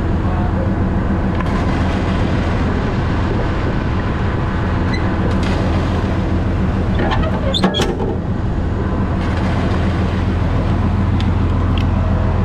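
Concrete mixer truck's diesel engine running steadily, with a short clatter of knocks about seven and a half seconds in.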